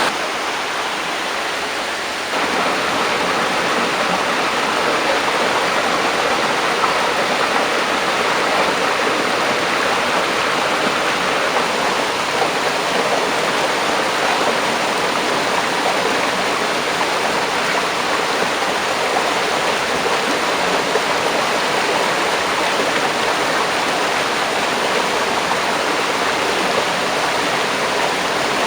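Waterfall: falling water rushing steadily. About two seconds in, the sound shifts and grows a little louder, then holds even.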